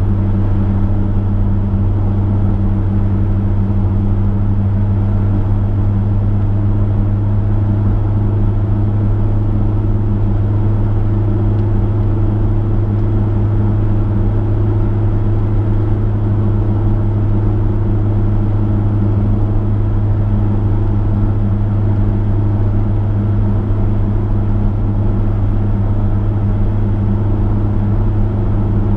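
Chevrolet V8 engine running at a steady cruise, a constant low drone with road noise and no change in pitch.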